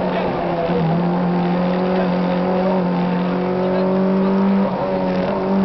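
Citroën AX GTi rally car's 1.4-litre four-cylinder engine running hard at speed, heard from inside the cabin. Its pitch drops a little under a second in, then holds steady, with a short dip and change of pitch about five seconds in.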